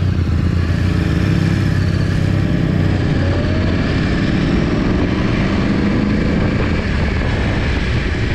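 Yamaha R1 inline-four sport bike with a Termignoni exhaust running hard at high speed, a loud steady engine note with a dense rush of noise over it and its pitch climbing slowly in the middle.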